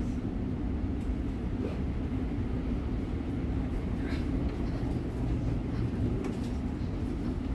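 Cabin noise of a Siemens Nexas electric train under way: a steady low rumble of the wheels and running gear, with a few faint clicks and knocks.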